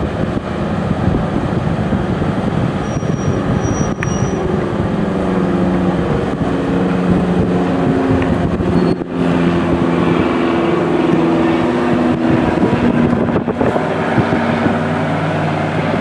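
Boat engine running hard under load, its pitch shifting up and down as the throttle changes.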